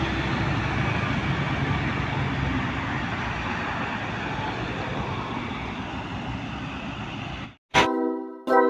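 Road traffic going past: heavy-vehicle engines with a low hum and tyre noise, slowly fading. About 7.5 s in it cuts off suddenly and music with sharp, punchy beats starts.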